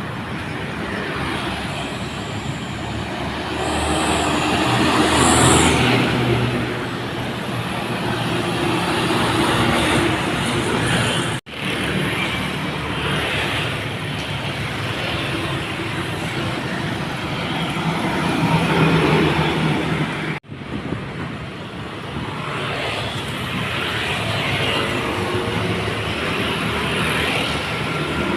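Heavily loaded dump trucks passing on a wet road, their diesel engines running under load over steady road noise. The sound swells twice as trucks go by and breaks off abruptly twice.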